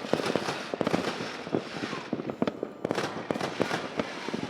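Fireworks going off: a dense run of overlapping bangs and crackles with no let-up.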